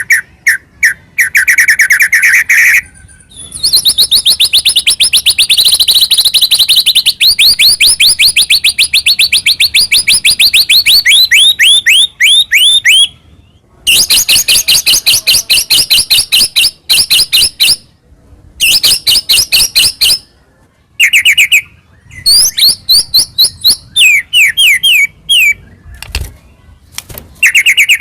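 White-rumped shama singing loud, fast phrases of rapidly repeated sweeping notes. A buzzy note comes first, then one run lasts about ten seconds, and shorter, more varied phrases follow, broken by brief pauses.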